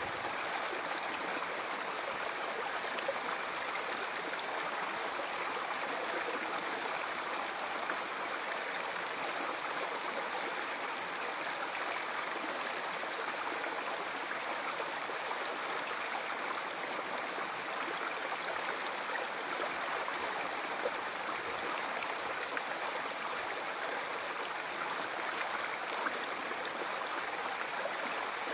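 Flowing river water: a steady, even rushing of a stream, with faint brief splashes here and there.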